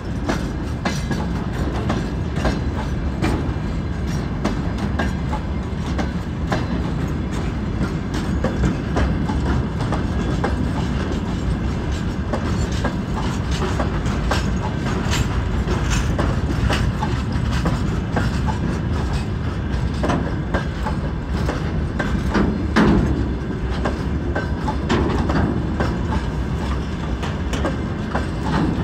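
Freight wagons rolling past on the track, a steady rumble with wheels clacking irregularly over rail joints.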